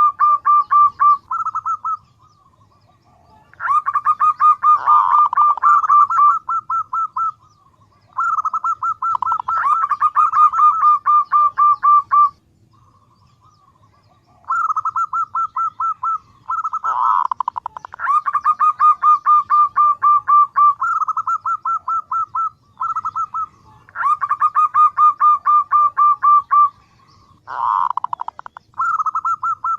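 Female zebra dove (perkutut) calling: bouts of a few seconds made of quick, evenly repeated short notes on much the same pitch, separated by brief pauses. This is the female's call to males, used as a lure call.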